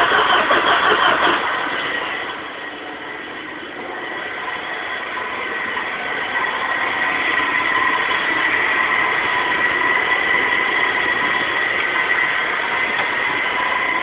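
Rebuilt Vauxhall Astra GTE turbo engine cranked over by the starter with an even pulsing, stopping about a second and a half in. A steady high-pitched whine follows and rises a little in level a few seconds later.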